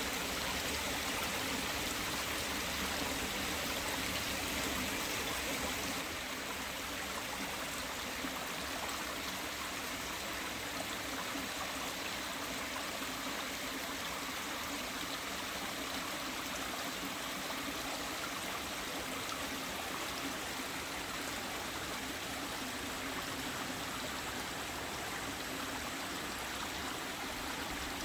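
Small waterfall, the Matsuba-no-taki, running with a somewhat low flow: a steady, gentle rush and splash of falling water. The level dips slightly about six seconds in and stays even after.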